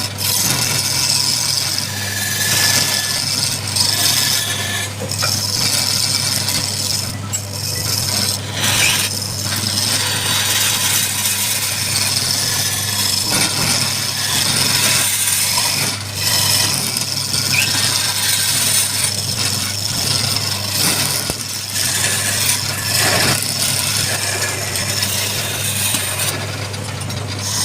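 Wood lathe running with a steady motor hum while a turning tool cuts into the spinning wood, giving a continuous scraping hiss with a few brief breaks.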